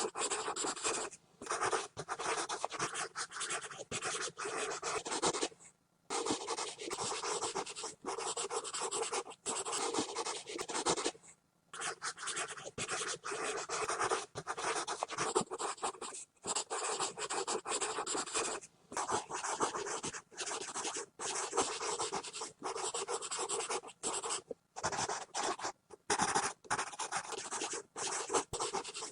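Pencil scribbling fast on paper, quick scratchy strokes that go on with short breaks, now and then pausing for about half a second.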